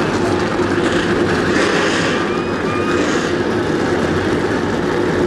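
Field of NASCAR stock cars with their V8 engines running, a steady dense drone that does not let up.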